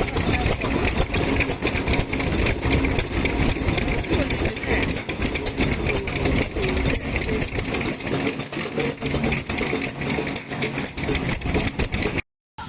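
Several vintage kerosene-fuelled stationary engines running at once, their exhaust beats overlapping in a dense, irregular stream of sharp pops. The sound cuts off abruptly just before the end.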